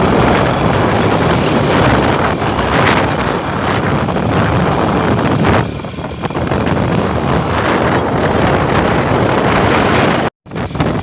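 Loud wind buffeting the microphone over the rumble of a moving vehicle, cut off abruptly near the end.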